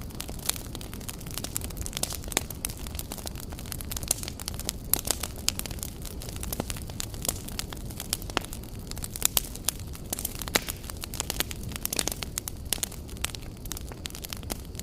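Wood fire burning, a steady low rumble with irregular crackles and pops, a few of them louder.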